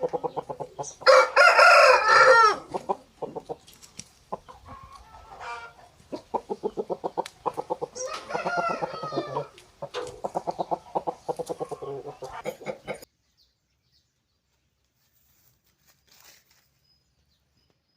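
Hens clucking in a rapid, even rhythm while roosters crow loudly twice, about a second in and again around eight seconds. The sound cuts off suddenly about two-thirds of the way through, leaving almost nothing.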